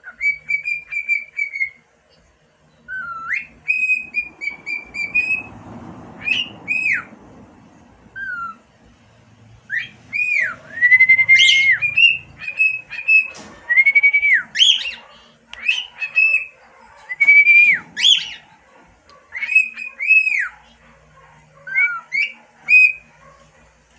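Cockatiel whistling its song: a string of clear whistled notes, some held briefly and others sweeping up or dropping sharply, broken by short pauses and a few squeaky chirps.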